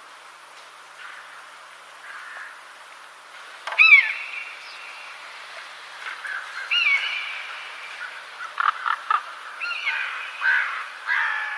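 Birds calling: a series of short, curving calls, the loudest about four seconds in, with a few sharp clicks near two-thirds of the way through.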